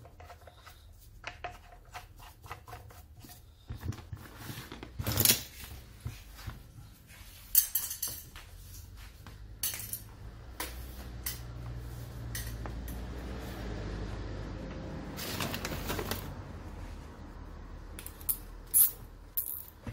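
Metal parts and hand tools clinking and knocking against each other and the bench as a 9-inch angle grinder is put back together. There are many separate clicks, with a few sharper knocks, and a rubbing, scraping stretch through the second half.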